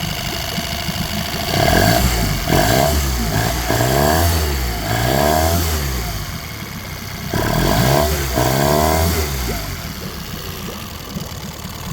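2001 Yamaha 8 hp four-stroke outboard running after a carburettor clean-out, revved up and back down several times with idle between, and running smoothly. The fuel problem was water and dirt in the fuel.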